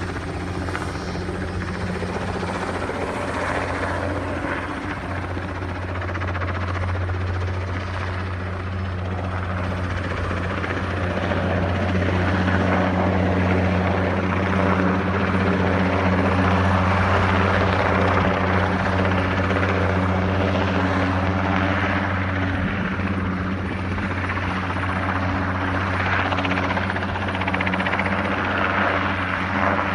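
Helicopter hovering with a steady low rotor beat and turbine noise while it lifts rooftop air-conditioning units on a sling load. It gets somewhat louder in the middle stretch, then eases off.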